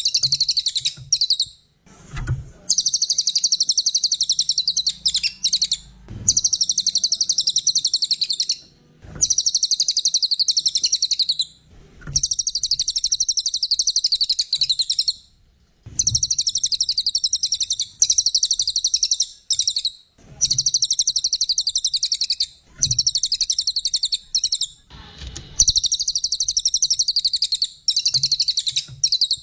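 Cililin songbird singing fast, high-pitched trills in phrases of about two to three seconds, repeated after short pauses, as a training song for cage birds.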